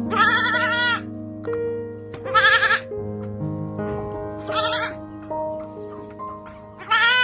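Goat bleating four times, each a wavering call, the first about a second long and the others shorter, over background music.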